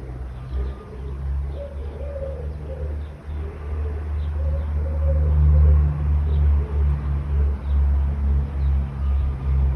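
Dove cooing in repeated low phrases, with faint short chirps of small birds, over a steady low rumble of road traffic that is the loudest sound.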